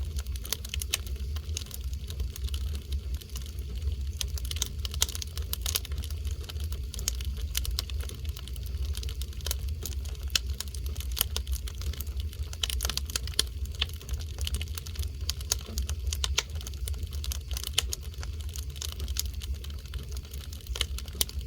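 Oak log fire crackling, with irregular sharp pops and snaps over a steady low rumble.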